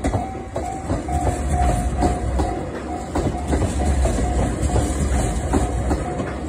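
JR West 283 series 'Ocean Arrow' limited express electric train passing close by, with a low rumble and the clatter of wheels over rail joints. A level-crossing warning bell rings over it with a short repeated ding, two to three times a second.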